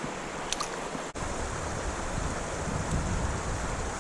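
Steady rush of fast-flowing creek water, with gusty wind buffeting the microphone as an uneven low rumble from about a second in.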